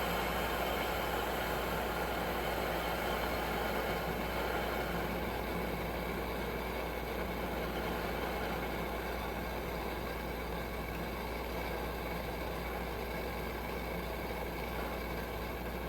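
Coleman 523 military two-burner white-gas stove burning on both burners, a steady, even rush of flame noise that eases slightly toward the end. Both burners are lit, but the stove is still not running as well as wanted, which the owner puts down to its fuel generator.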